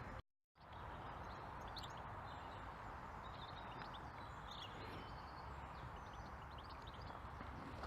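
Faint birdsong, scattered short high chirps and trills, over a steady outdoor background hiss. The sound drops out completely for about half a second near the start.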